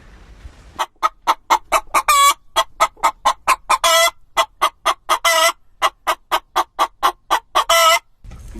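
Chicken clucking rapidly, about four short clucks a second, broken four times by a longer drawn-out squawk. The clucking starts about a second in and stops shortly before the end.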